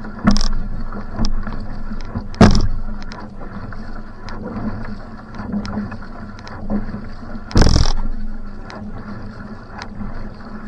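Va'a (outrigger canoe) paddled at hard effort: paddle strokes and water splashing and rushing along the hull, with a steady low hum. Three loud thumps stand out, one just after the start, one about two and a half seconds in and one about three quarters of the way through.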